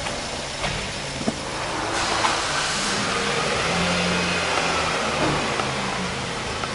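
Subaru Stella kei car engine running at the exhaust. Its sound rises about two seconds in and holds at the higher level.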